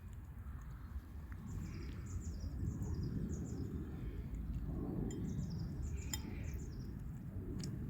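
Small birds chirping in quick high twittering runs, in two spells, over a steady low rumble, with a couple of sharp clicks near the end.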